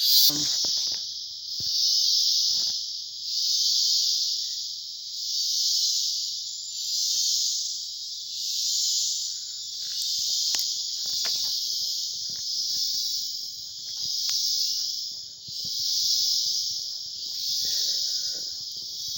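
Loud rainforest insect chorus: a shrill high buzz that swells and fades about every two seconds.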